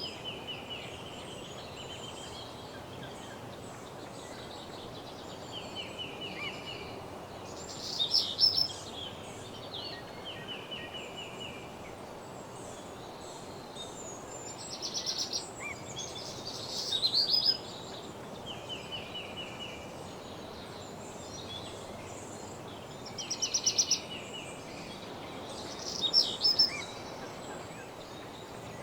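Songbirds singing in woodland: short trilled phrases repeating every few seconds, a few of them louder and closer, over a steady background hiss.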